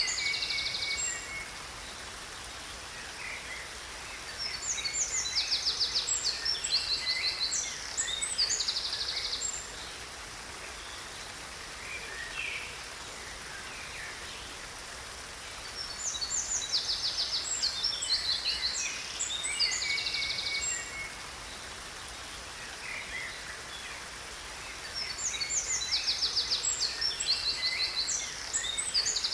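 A songbird singing bouts of rapid, high trilled notes, each bout a few seconds long and recurring several times, over a steady hiss of falling water from a waterfall.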